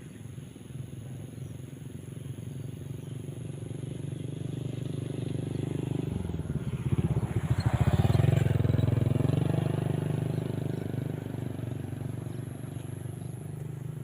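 A motor vehicle's engine running steadily, growing louder as it approaches, passing closest about eight seconds in, then fading away.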